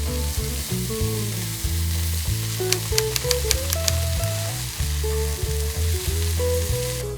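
Food sizzling on a charcoal grill, a steady hiss with a few sharp crackles about three seconds in, under background music with a stepping bass line and a melody. The hiss cuts off suddenly near the end.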